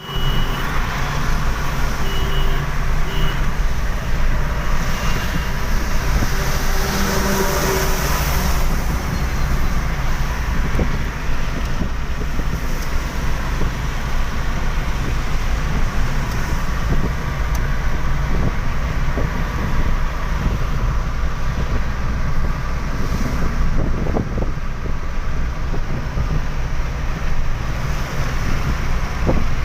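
Steady road traffic noise: vehicle running with a strong low rumble and a continuous hiss, with a few short tones in the first several seconds.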